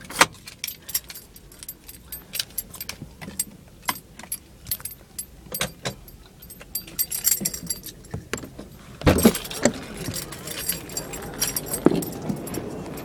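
Keys jangling, with scattered clicks and rattles of handling, as the car is shut down and the driver gets ready to step out; a louder burst of jingling and knocks about nine seconds in.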